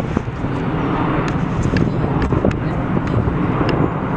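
Steady noise of a jet airliner's engines, loud and heaviest in the low range, with a few short clicks scattered through it.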